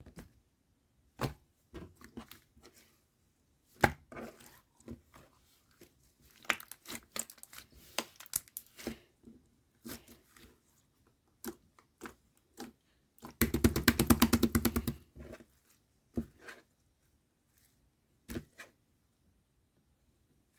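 Slime with pearl beads mixed in being squeezed and pressed: scattered sharp clicks and pops, with a fast run of crackling clicks lasting about a second and a half past the middle.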